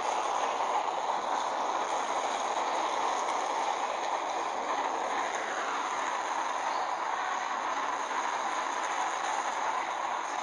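Train running, a steady even noise with no distinct clicks or changes.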